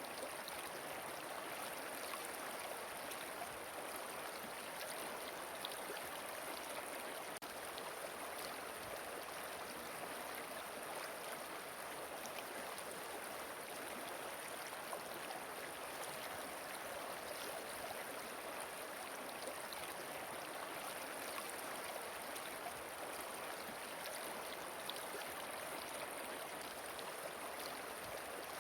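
Steady rush of flowing water, an even, unbroken sound with no music.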